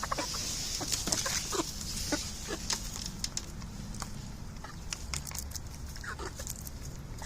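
Chickens pecking at cabbage leaf scraps: many quick, sharp taps, with a few soft clucks.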